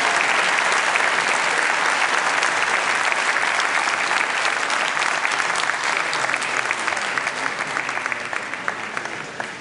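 Large audience applauding: dense clapping that thins out and fades over the last few seconds.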